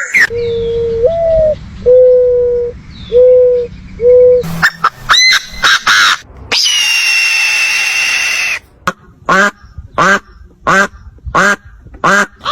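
A series of varied bird calls: low hooting notes at first, then a quick flurry of calls, one long high screech of about two seconds, and finally a run of short repeated calls.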